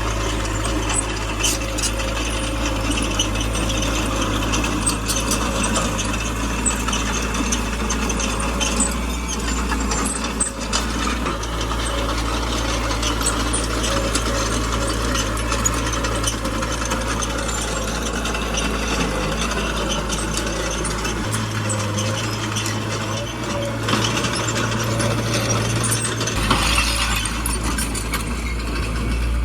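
Small crawler bulldozer at work: its diesel engine runs steadily under a constant clatter and rattle of steel tracks. The engine note shifts for a few seconds past the middle.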